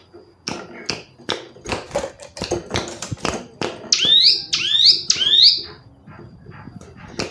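Female ciblek gunung (a prinia) calling: a fast run of sharp, dry ticking notes, then about four seconds in three loud swooping notes that rise and fall in pitch, followed by quieter ticks.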